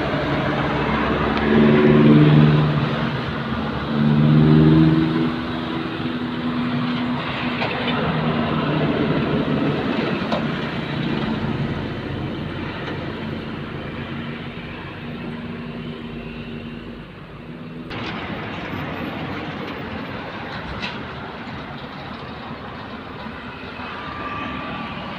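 Heavy trucks running past at close range. A deep pitched engine note swells loudly twice, about two and four and a half seconds in, then settles into a steady rumble of engines and tyres.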